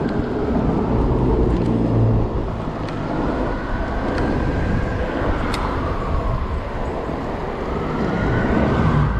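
Riding noise from an electric bike in city traffic: steady tyre and wind rumble, with a faint whine that dips in pitch and rises again over several seconds, and a sharp click about five and a half seconds in.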